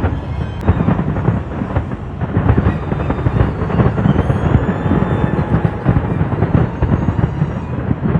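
Fireworks display going off in a dense, continuous barrage: many overlapping booms and crackles with no break.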